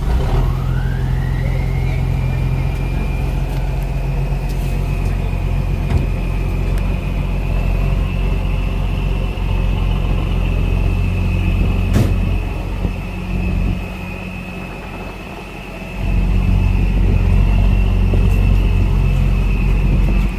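Truck engine running hard under load while pulling a stuck pickup out of soft ground. A high whine rises over the first couple of seconds and then holds steady. The engine eases off briefly about two-thirds of the way through, then comes back up to full effort.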